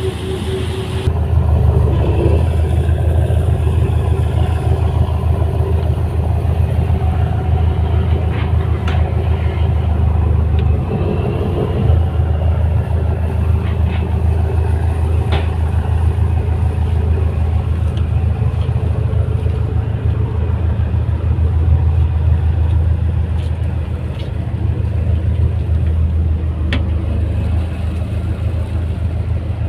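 Steady low engine rumble of a moving vehicle or vessel heard from on board, growing louder about a second in and holding even, with a few faint clicks.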